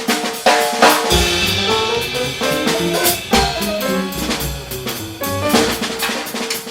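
Jazz band playing an instrumental passage: a drum kit opens and closes the stretch with snare and cymbal hits, and in between brass carries a sustained melodic phrase over the rhythm.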